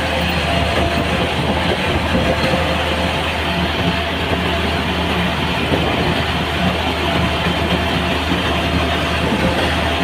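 Machinery with an engine running steadily, a low hum under a dense, even clatter.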